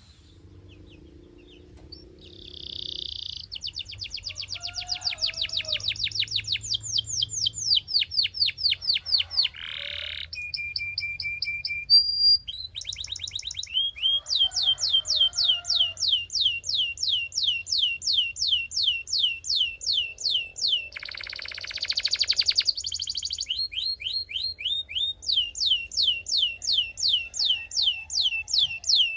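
A Belgian canary singing a long song of rapid, high-pitched trills, each phrase a fast run of repeated notes. It starts after a quiet second or two, with a brief steady whistle near the middle and a harsher buzzy phrase about three-quarters of the way through.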